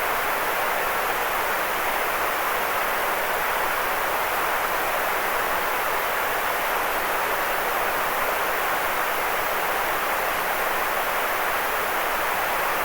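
Steady, unchanging white noise hiss, strongest in the middle range with little low rumble.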